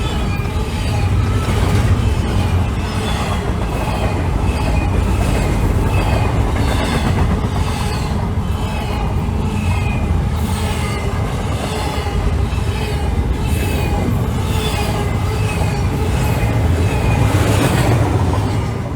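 Freight train cars rolling past, the wheels clacking rhythmically over rail joints, with a rumble and some high-pitched wheel squeal.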